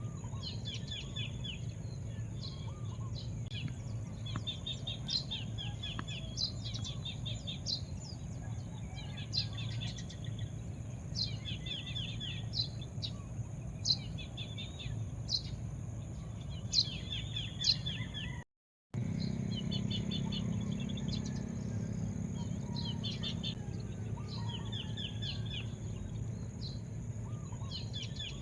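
Songbirds chirping over and over, each call a sharp high note followed by a quick trill, over a steady low rumble. The sound cuts out completely for a moment about two-thirds of the way through.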